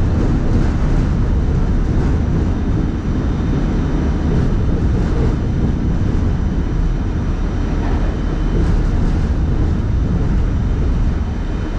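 Staten Island Railway train running along the line with a steady low rumble.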